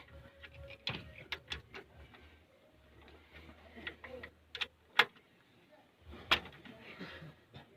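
Hand tools clinking and knocking against metal engine parts during big end bearing work: a string of scattered sharp clicks, the loudest about five and six seconds in.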